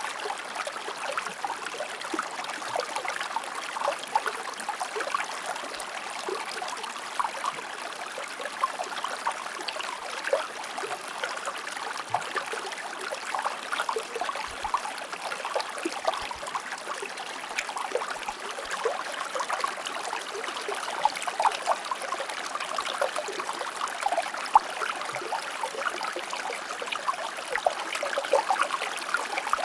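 Shallow river or stream flowing over stones, a steady babble with many small quick splashes and trickles.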